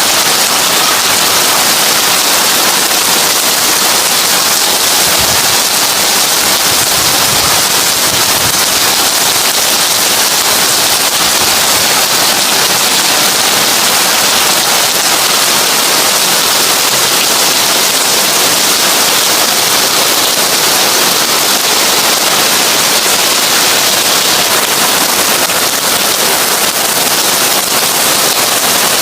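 Heavy rain falling on a tin roof: a dense, steady hiss of countless drops pattering on the metal.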